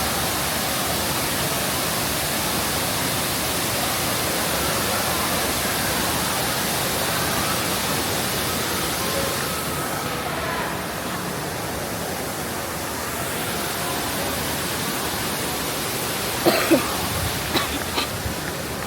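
Steady rushing water, an even hiss, with a few brief sharp sounds near the end.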